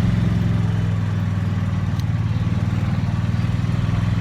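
Car engine and road noise heard inside the cabin while driving: a steady low rumble.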